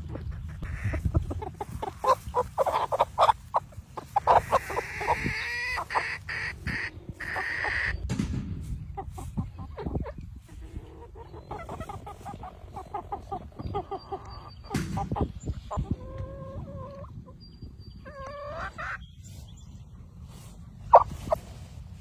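Domestic fowl clucking and calling in short, scattered pitched calls, mixed with brief clicks and knocks.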